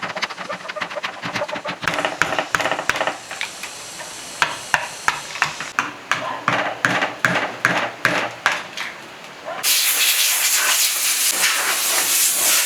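Rapid, irregular metal taps and clicks from hand work on a flood-damaged electric motor. After about nine and a half seconds they give way abruptly to a loud, steady hiss.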